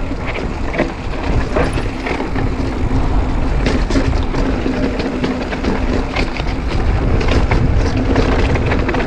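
Mountain bike riding down a dirt trail: steady rushing of wind and tyres with constant rattling clicks from the bike. The rattle is chain slap from a rear derailleur whose clutch is switched off.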